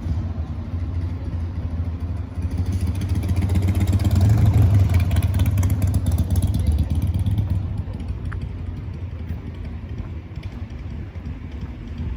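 A motor vehicle passing on the street: a low engine and traffic rumble that builds to its loudest about four to five seconds in, then fades away.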